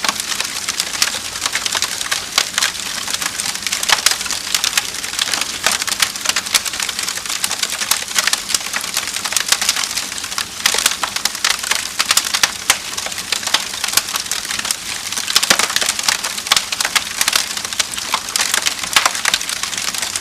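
Wood fire burning in a fireplace, with continuous dense crackling and frequent sharp pops.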